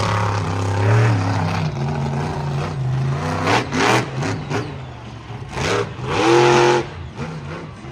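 Monster truck engine revving, its pitch rising and falling over a steady low drone, with several loud surges around the middle and near the end.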